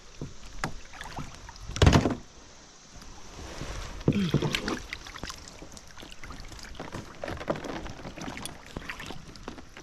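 Handling noises on a kayak: scattered knocks and clicks, with one loud thump about two seconds in.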